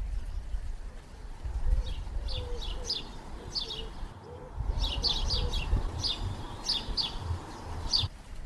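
Small birds chirping: quick, high, downward-sliding chirps in clusters, over a low steady rumble. The chirping stops abruptly shortly before the end.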